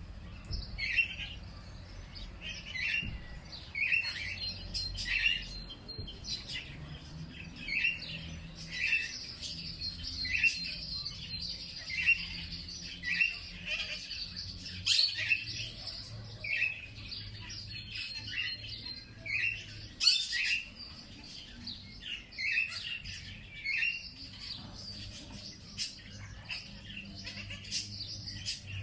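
Wild birds chirping: one bird repeats a short chirp about once a second, over a continuous higher twittering from other birds.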